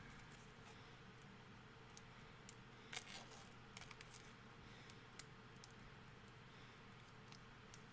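Faint clicks and crinkles of CD box set packaging being handled and opened, with a sharper crackle about three seconds in.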